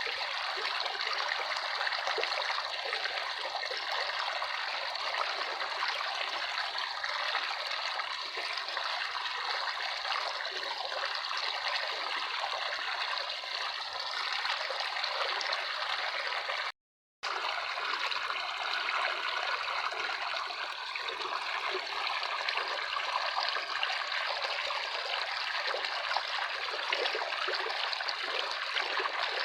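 Running water, a small stream trickling steadily. The sound cuts out completely for about half a second past the middle, then resumes unchanged.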